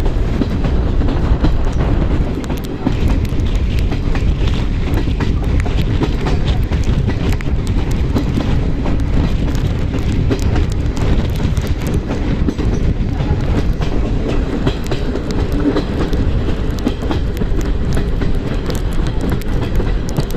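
Passenger express train running on the track, heard from on board: a steady loud rumble with frequent clicks and rattles from the wheels on the rails.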